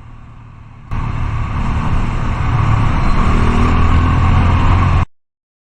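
Motorcycle running on the road, a loud noisy rumble heavy in the low end that starts abruptly about a second in, grows a little louder, and cuts off suddenly about five seconds in.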